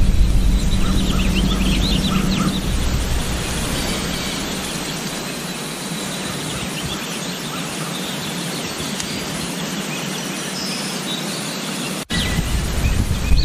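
Outdoor farm ambience: small birds chirping in quick runs over a steady hiss of wind. Wind buffets the microphone in the first few seconds and again after a brief dropout near the end.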